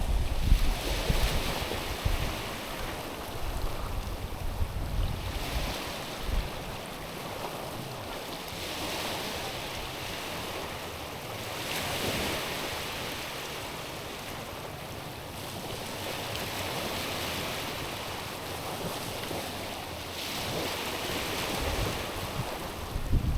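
Small sea waves washing onto a stony, pebbly shore, each swell rising and falling away every three to four seconds. Wind buffets the microphone with a low rumble in the first couple of seconds.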